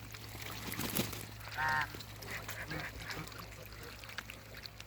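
A single short honking call from a waterbird, with a sharp knock about a second in, over a steady low hum.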